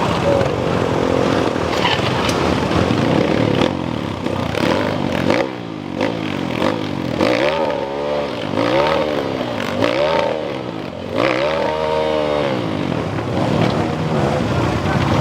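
Motocross motorcycle engines revving hard, their pitch rising and falling again and again as the throttle is opened and closed, with a run of quick rev swells in the second half.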